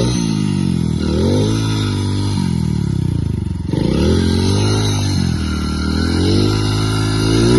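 Motorcycle engine revved hard, its pitch rising and falling back several times as the bike strains to pull a load.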